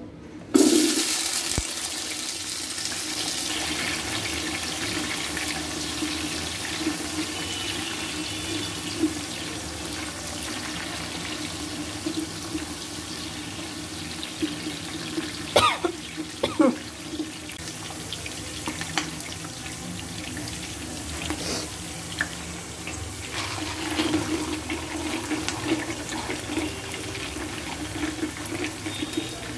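Sliced red onions and green chillies hit hot oil in a pan about half a second in and sizzle steadily. A few sharp knocks come around the middle from the wooden spatula stirring against the pan.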